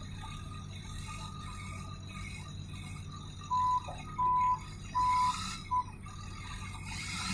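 Truck reversing alarm sounding a few steady high-pitched beeps, starting about halfway in, over the low steady hum of the engine running.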